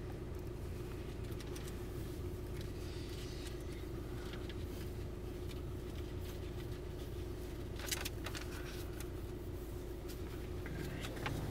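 Car engine idling, heard from inside the cab: a steady low rumble with a constant hum over it. One short click about eight seconds in.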